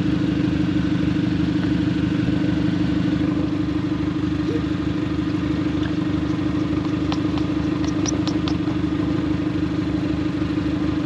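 Car engine idling steadily with an even low pulse, with a few faint light clicks about two-thirds of the way through.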